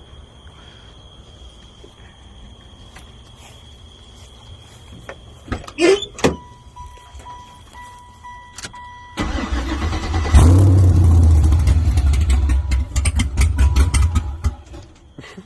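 A beeping dash chime, then the LS-swapped 1996 Impala SS's V8 with a BTR Stage 3 cam cranks for about a second, catches and runs loudly and unevenly for about four seconds before being shut off. Two short sharp sounds come just before the chime.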